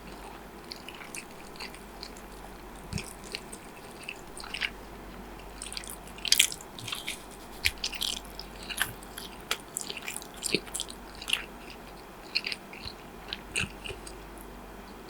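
Close-miked chewing and biting: irregular crisp clicks and wet smacks of a mouthful of food, busiest in the middle stretch, over a faint steady hum.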